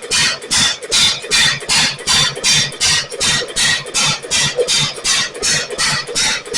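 1927 Ottawa 4-5 HP single-cylinder stationary engine running, its exhaust firing loudly in an even beat of about three strokes a second.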